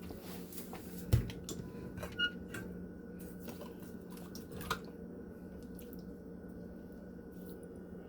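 Quiet kitchen handling sounds over a steady low hum: one sharp knock about a second in, then a few light clicks and soft wet sounds while raw chicken is seasoned.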